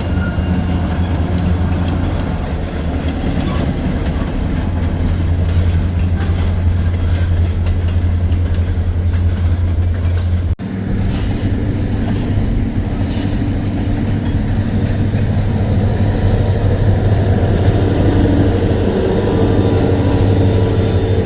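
Diesel freight train passing, a steady low drone mixed with the clatter of rail cars rolling over the track, broken by a brief cut about halfway through.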